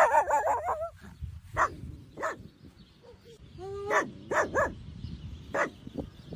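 A dog whining with a wavering pitch for about a second, then giving a series of short, sharp barks and yips, one of them led in by a brief rising whine.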